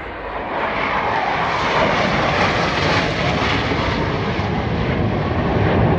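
Aircraft flying low past the crowd, its engine noise swelling over the first second and then staying loud and steady.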